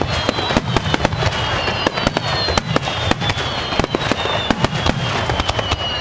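Aerial fireworks going off in rapid succession at close range: a dense run of crackling pops and bangs over a low rumble, with several high whistling tones slowly falling in pitch.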